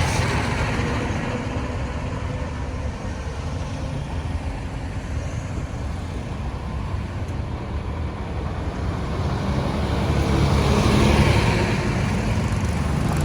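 Road traffic: engines and tyres of passing vehicles, a continuous low rumble. One vehicle grows louder as it passes, about ten seconds in.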